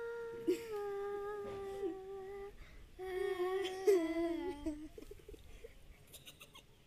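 A girl's voice humming a long, held note that sinks slightly in pitch, then a second, lower note about three seconds in, trailing off before five seconds.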